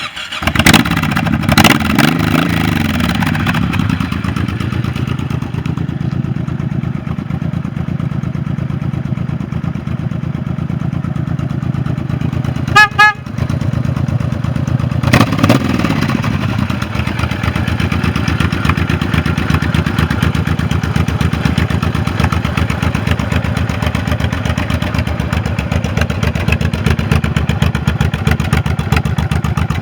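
Honda VTX1800R's 1,800 cc V-twin engine starting, blipped twice, then idling steadily. A brief loud pitched tone comes about halfway through, and the throttle is blipped once more soon after.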